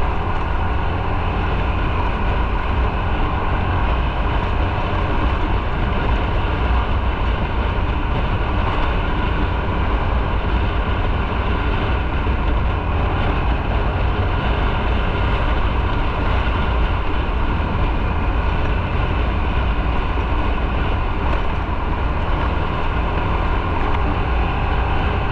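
Motorcycle being ridden at a steady speed: an even engine drone under a steady low wind-and-road rumble, with no change in pace.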